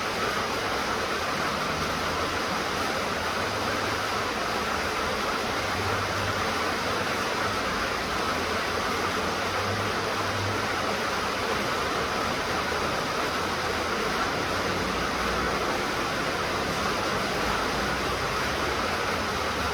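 Steady rain falling, an even hiss without individual drops standing out.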